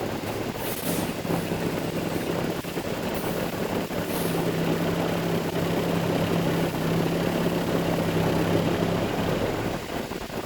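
Concrete mixer truck's diesel engine running steadily, with a low droning tone that comes in about a second in and fades near the end.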